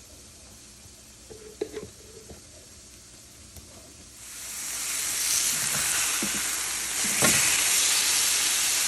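Thick beef burger patty frying in a hot pan: a few light utensil clicks, then a loud sizzle swells in about four seconds in and holds steady, with one sharp knock partway through it.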